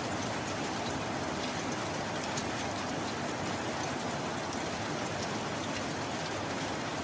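Steady rain falling, an even hiss with small drop ticks scattered through it.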